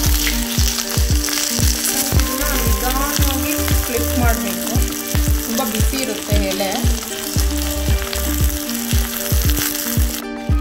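Coconut oil sizzling under a banana-leaf-wrapped fish parcel frying on a hot tawa, over background music with a steady beat. Everything cuts out for a moment near the end.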